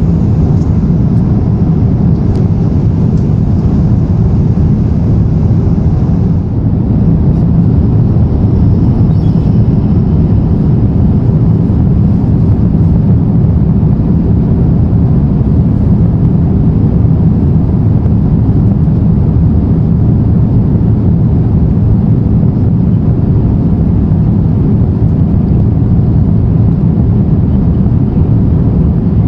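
Steady low rumble and rush of air inside an Airbus A350-900's cabin in flight: engine and airflow noise at cruise.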